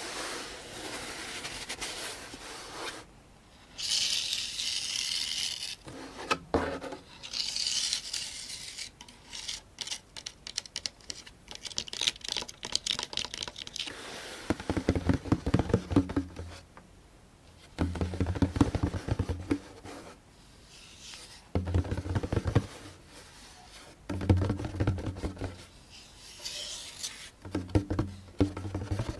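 Fingernails scratching and rubbing across the head of a djembe in short bursts. This gives way about halfway through to rapid fingertip tapping on the drumhead in several quick runs, each a second or two long, with the drum's deep resonance.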